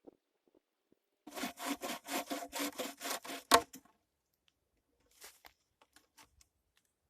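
Hand saw cutting wood in quick, even strokes, about five a second, for a couple of seconds, broken by one sharp crack near the end of the run; a few faint clicks follow.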